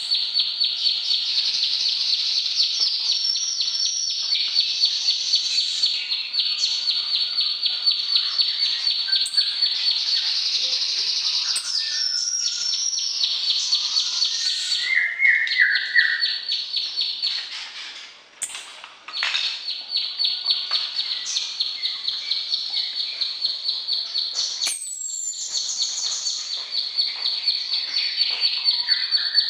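Ciblek sawah (plain prinia) singing a long, fast series of evenly repeated high chirping notes, broken by a short pause about two-thirds through; a few other brief bird notes and a high sweeping call come in between.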